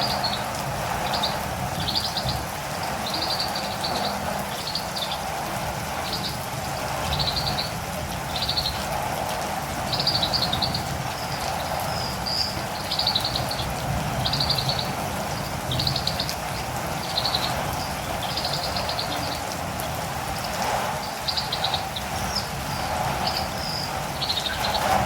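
Steady rain with a catirumbava (olive-green tanager) calling over it: short high chirps in quick clusters, repeated about once a second.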